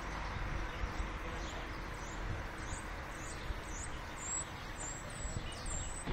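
Birds chirping in short, high-pitched calls, several quick downward chirps and a few brief whistles, over a steady low outdoor background noise.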